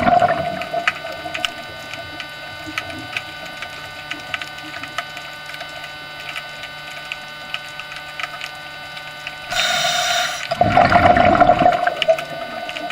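Steady hum of aquarium equipment with water noise and faint scattered ticks, then a loud rush of noise about ten seconds in that lasts a couple of seconds.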